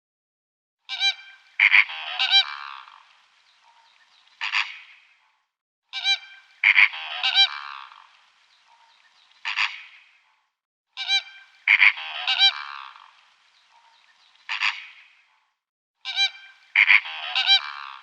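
Honking bird calls. A short phrase of several loud calls with a quieter tail repeats identically four times, about every five seconds, beginning about a second in.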